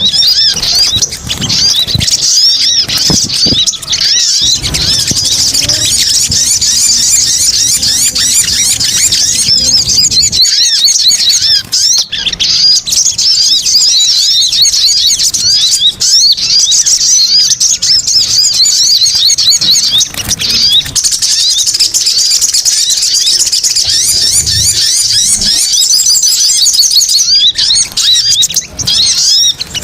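Bird-luring recording of small birds, tagged as a male sogon, twittering in a dense, unbroken stream of rapid high-pitched chirps, with only brief dips a third of the way in and near the end.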